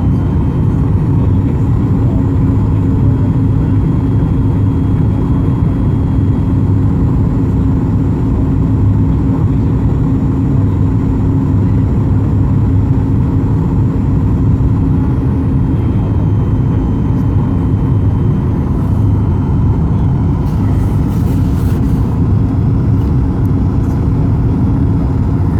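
Steady engine and airflow noise inside the cabin of a Ryanair Boeing 737 airliner, a constant drone with low hum tones.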